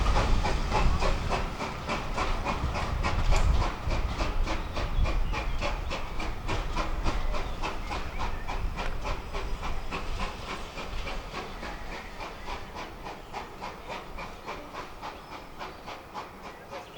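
A train running past and moving away, its wheels clicking steadily over the rail joints with a rumble and hiss, fading as it recedes.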